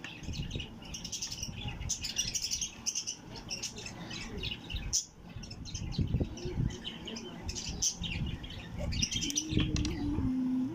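Small birds chirping busily and continuously, many short repeated chirps. A few soft knocks and scrapes from a metal spoon and a steel tray come through, mostly in the second half.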